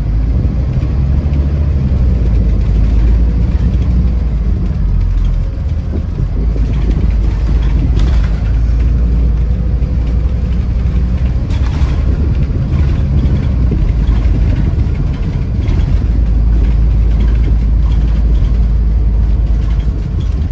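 Scania Irizar i4 coach under way: a steady low engine and road rumble, with a couple of brief knocks about a third and halfway through.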